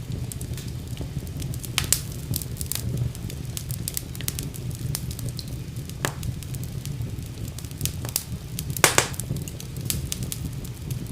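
Wood fire crackling in a fireplace: a steady low rumble of flames with frequent sharp pops and snaps, two of them louder, about two seconds in and about nine seconds in.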